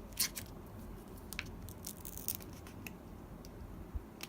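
A few sharp clicks and light scrapes of small plastic parts and cable connectors being handled and fitted inside an opened iMac, the loudest click just after the start.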